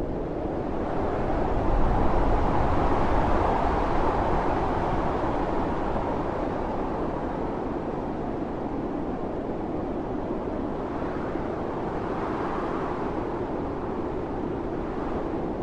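Howling winter storm wind with blowing snow: a steady rush that swells into a strong gust about two seconds in and eases off, with a smaller gust later on.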